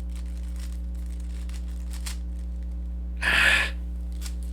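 Faint, scattered clicks of a Rubik's cube being turned over a steady low hum, with one short rush of breathy noise about three seconds in.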